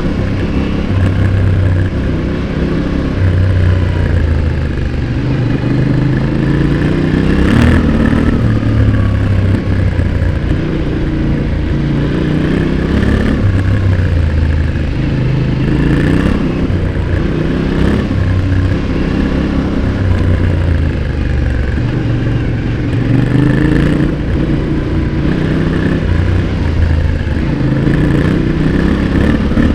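Yamaha Ténéré 700's 689 cc parallel-twin engine heard close at the exhaust, revving up and easing off again and again under hard riding, the note climbing and falling every few seconds. A sharp knock about seven and a half seconds in.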